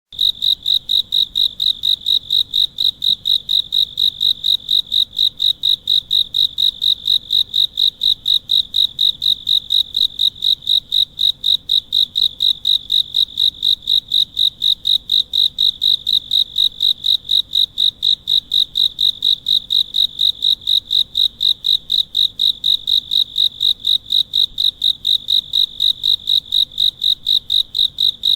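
Cricket chirping: a high, evenly spaced pulsing chirp, about four to five pulses a second, that starts abruptly and keeps an unchanging rhythm.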